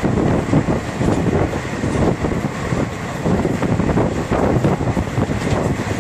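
Passenger train running at speed, heard from an open window of the coach: a steady, uneven rumble of wheels on rail mixed with wind buffeting the microphone.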